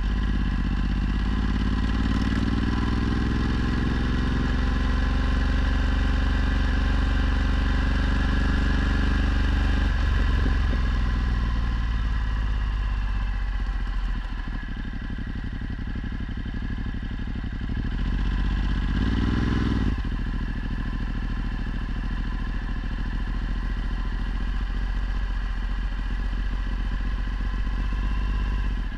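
Ducati Multistrada 1260's V-twin engine with a Termignoni exhaust, ridden under way. It accelerates with rising pitch over the first few seconds and holds until about ten seconds in, then eases off. A short rev comes near the middle, then it runs steadily, with wind on the microphone.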